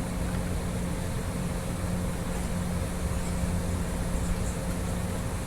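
Steady machine hum with a constant low tone, unbroken throughout.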